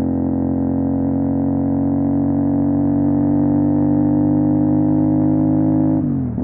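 CFMOTO 450 SR parallel-twin engine with an MSH G6 full-system exhaust, running at steady revs under way. Near the end the revs fall briefly, then pick up again.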